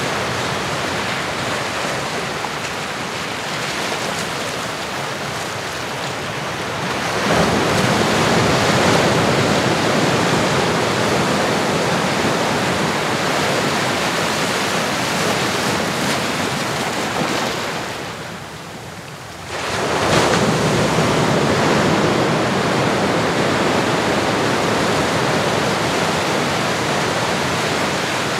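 Ocean waves on a shore, a steady wash of surf. It swells up about seven seconds in, eases into a brief lull about two-thirds through, then surges back as the next wave comes in.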